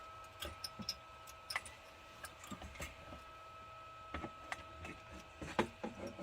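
Scattered light clicks and small knocks of parts and tools being handled during a truck heater repair, over a faint steady high whine.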